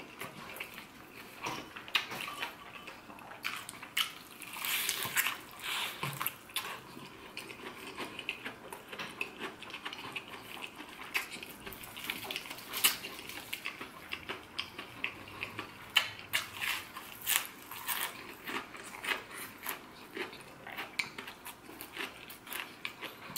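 Close-up chewing of a crispy breaded fried chicken drumstick: irregular crunches and crackles as the coated meat is eaten.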